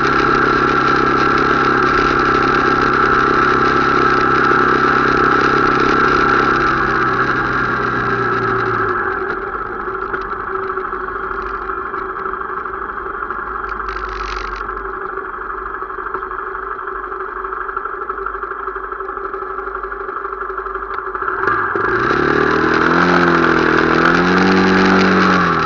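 Motorcycle engine running at a steady pace, then easing off about nine seconds in. About twenty-two seconds in it revs up again, the note rising and wavering before dropping back near the end.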